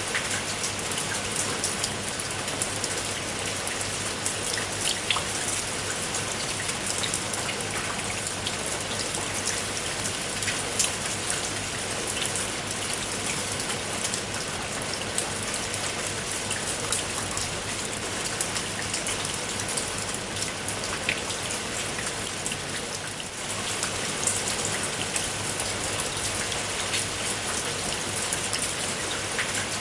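Steady rain falling, with many distinct raindrops pattering on a surface, and a brief lull about three quarters of the way through.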